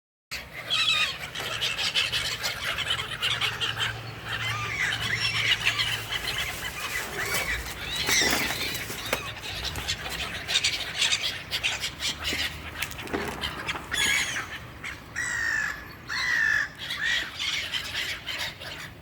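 A flock of birds calling and chirping, many short overlapping calls one after another.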